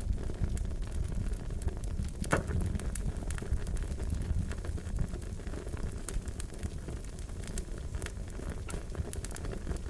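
Wood fire crackling: a steady low rumble of flames with scattered sharp pops and snaps, one louder pop a couple of seconds in.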